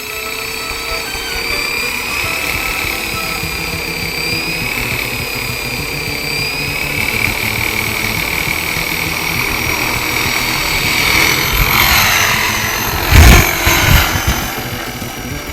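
Helicopter turbine whine and rotor noise, steady and growing louder near the end, then two loud crashing impacts about a second apart as the helicopter strikes a tree.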